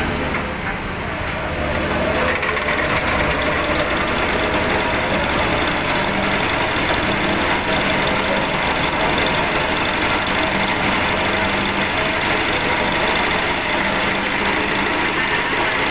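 Heavy construction machine's diesel engine running steadily, getting a little louder about two seconds in.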